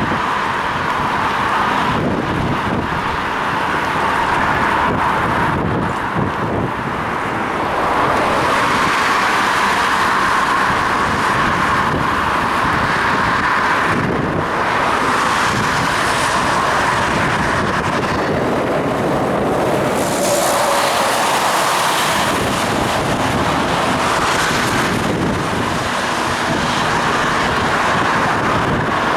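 Steady wind noise on the microphone of a head-mounted action camera while cycling, mixed with the rumble and hiss of road traffic. The noise swells and eases a few times.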